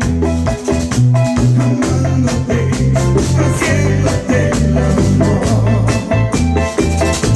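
Instrumental Latin dance-band music: a bouncing bass line under drums and a shaker keeping a steady beat.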